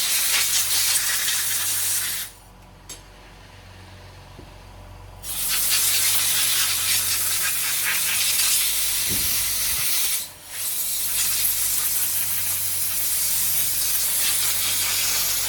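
Compressed-air blow gun hissing as it blows out the ports of a Yamaha YZF1000 Thunderace carburettor. A blast stops about two seconds in, then after a pause come two long blasts of about five seconds each, split by a brief break.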